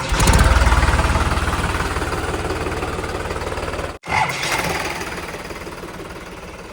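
Heavy diesel engine running close by with a hard, knocking clatter. It breaks off abruptly about four seconds in and picks up again straight away, then grows gradually quieter.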